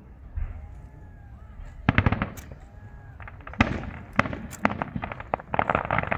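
Fireworks display: aerial shells bursting in a rapid series of sharp bangs starting about two seconds in, with dense crackling clusters of small reports around the middle and near the end.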